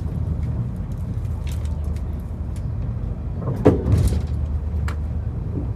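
Train carriage running along the track: a steady low rumble with scattered clicks and rattles, and one louder clunk about three and a half seconds in.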